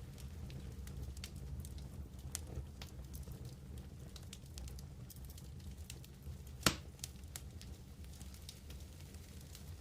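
Wood campfire burning: scattered light crackles over a low, steady rush of flame, with one sharp, louder pop about seven seconds in.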